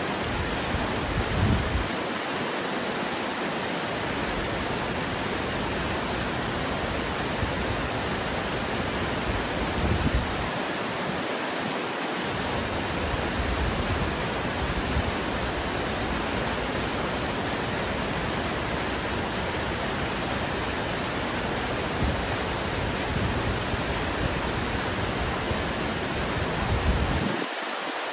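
Steady rush of water, like a waterfall or fast stream, an even hiss with a few brief low rumbles.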